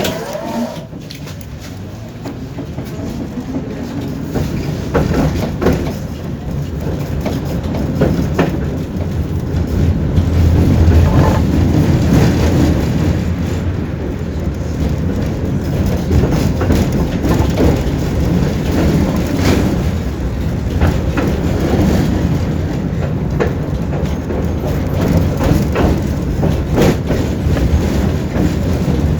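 Tram heard from inside the passenger car, pulling away from a stop: the rumble of motors and wheels grows louder over the first ten seconds as it gathers speed, then runs on steadily, with scattered clacks of the wheels over rail joints.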